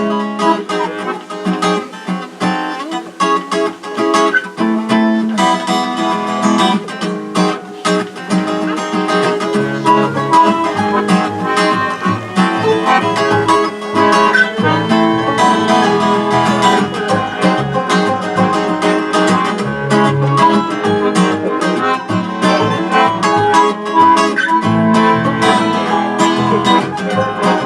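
Live acoustic band playing the instrumental opening of a song, led by acoustic guitar, with no singing yet. The music starts abruptly at the beginning.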